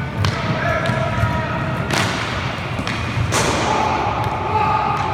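Sharp knocks of an inline hockey game, from sticks, puck and rink boards, three or four times, the loudest a little past halfway. Short shouts from the players and a steady low rumble run underneath.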